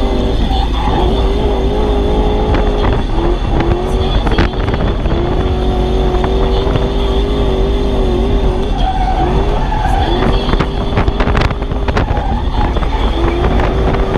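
Toyota 1UZ quad-cam V8 in a Nissan S13 drift car, heard from inside the cabin, held high in the revs while sliding, its pitch dropping and climbing back several times as the throttle is worked.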